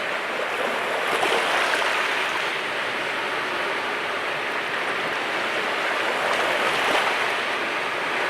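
Mediterranean sea waves washing onto the shore in continuous surf, swelling a little about a second in and again near the end.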